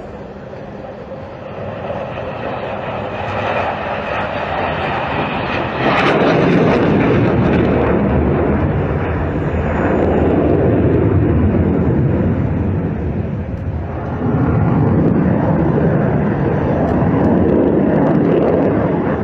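Jet aircraft engine noise, loud and rushing, with a sudden jump in loudness about six seconds in and a brief drop and return about fourteen seconds in.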